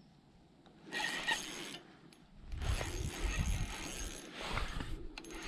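Fishing reel clicking and ratcheting while a hooked fish is fought and reeled in, in two spells of activity about a second in and again from halfway through, with low thumps mixed in.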